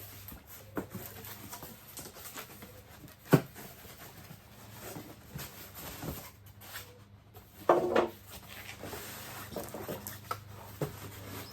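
Cardboard box and packing being opened and handled around a new dehumidifier: scattered rustles and clicks, one sharp knock about a third of the way in, and a short squeaky scrape about two-thirds of the way in.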